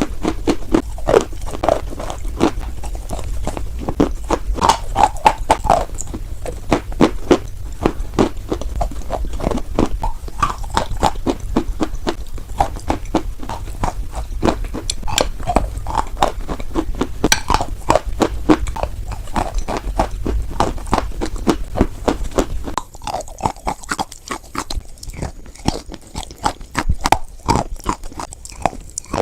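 Close-up chewing and crunching of white chalk, with dense, irregular crackly crunches. A low background hum stops about two thirds of the way through, and the crunching becomes sparser after that.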